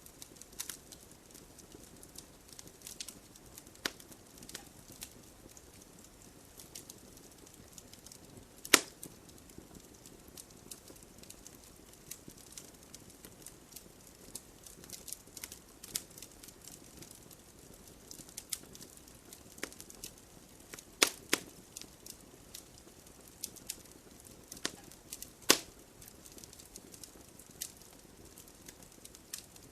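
Logs burning in a fireplace: a soft steady hiss with scattered small crackles and a handful of louder sharp pops, the loudest about nine seconds in, a quick pair around twenty-one seconds and another at about twenty-five seconds.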